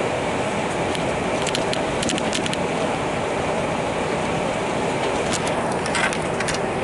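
Steady rumble of a moving passenger train heard from inside the carriage, with light rattling clicks about two seconds in and again near the end.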